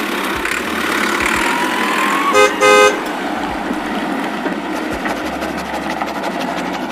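Toy tractor horn tooting twice, a short beep then a slightly longer one, about two and a half seconds in, over a steady engine-like running noise.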